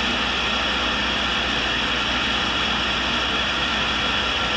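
Tool and cutter grinder running with its grinding wheel spinning, a steady hum and hiss with no change.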